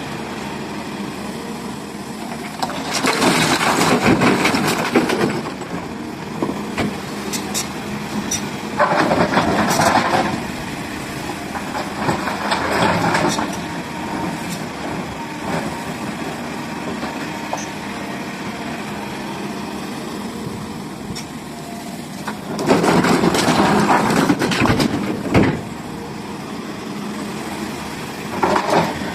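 SDLG excavator at work: a heavy diesel engine runs steadily, broken by several loud, noisy surges lasting one to three seconds each, the longest about 23 seconds in.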